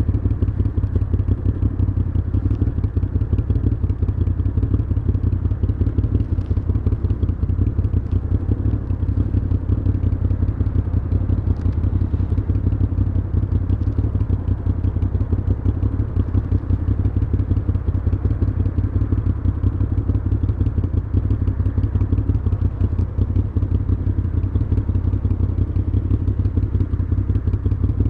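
Moto Guzzi V7's air-cooled transverse V-twin running steadily through a Mistral aftermarket exhaust, a deep, even beat that holds one pitch throughout.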